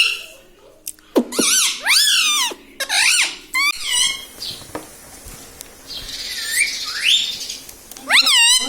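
Indian ringneck parrot giving a string of high, wavering squawking calls in several bursts, with a quieter gliding call later and another burst near the end.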